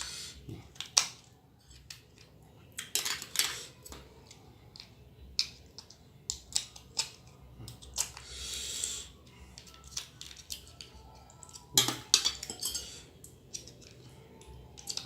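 Cracks, crunches and clinks of fresh blue swimming crab being broken apart and eaten from a plate, in irregular sharp snaps with a few longer crunches.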